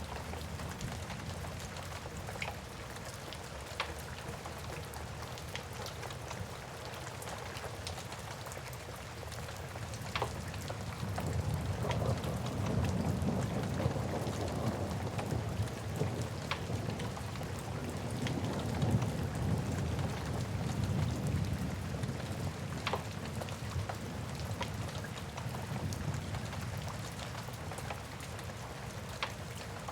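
Steady rain mixed with a wood fire crackling in a fireplace: scattered sharp pops over the hiss of the rain. A low rumble of thunder swells through the middle.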